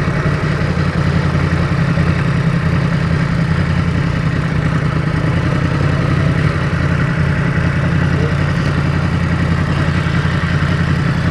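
Yamaha MT-10's crossplane inline-four engine running steadily at low revs through an Akrapovic muffler.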